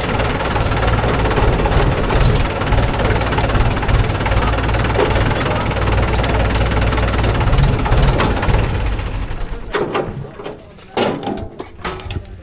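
Heavy diesel engine running loudly and steadily, then falling away about nine or ten seconds in, after which a few sharp knocks are heard.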